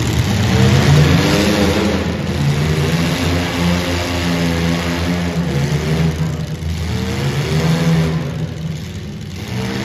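Compact demolition derby car engines revving, their pitch rising and falling repeatedly.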